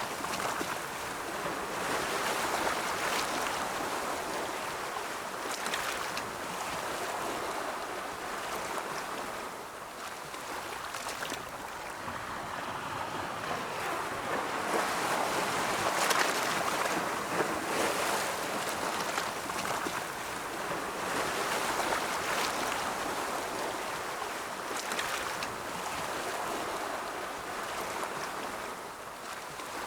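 Ocean surf: waves rolling in and washing back in a continuous rush that swells and eases every few seconds, loudest about halfway through.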